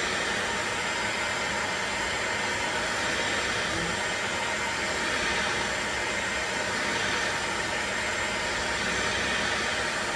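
Electric heat gun blowing steadily, an even hot-air rush with no change in level, used to heat a classic Mini's suspension trumpet to free it from the seized rubber cone.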